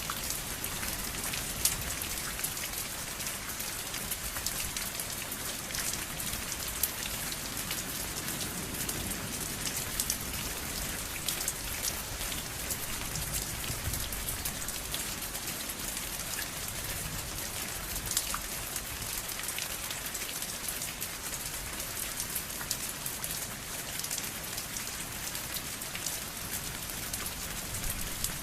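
Steady rain falling on a surface: an even hiss with dense, scattered drop ticks and no thunder.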